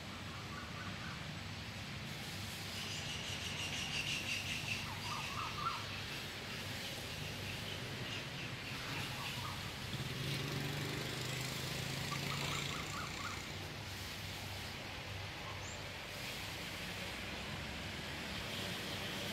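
Birds chirping, with short calls and trills scattered through, over a steady background of outdoor noise and a low hum.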